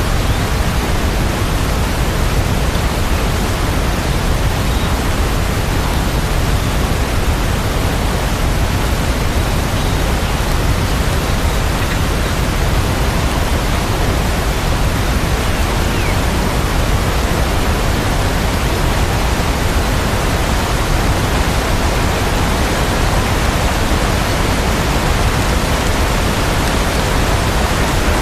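Steady rain sound: an even, unbroken hiss of rainfall, with no single drops, thunder or music standing out.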